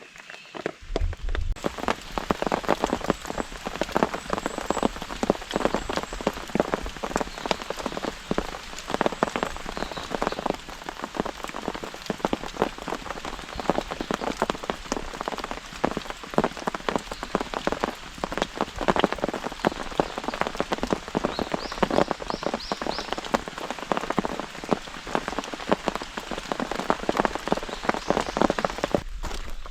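Rain falling hard on a camp tarp, a dense irregular patter of drops hitting the fabric, coming in suddenly about a second and a half in.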